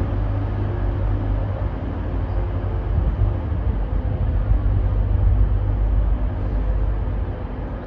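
A train's steady low rumble, with a faint engine hum above it.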